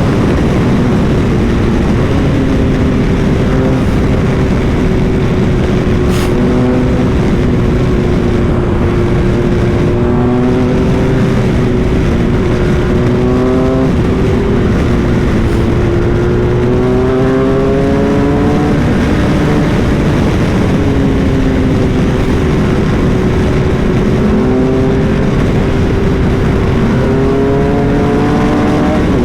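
BMW R 1250 GS Adventure's boxer-twin engine under way at speed, its pitch climbing and dropping back several times as it pulls through the gears, over a steady rush of wind noise.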